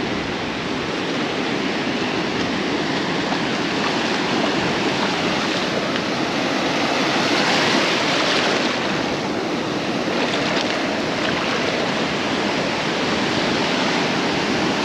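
Beach surf washing steadily, with one wave swelling louder about halfway through.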